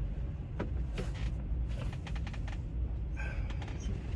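Low steady rumble of a semi-truck's engine heard inside the cab, with a scattered run of light clicks and ticks.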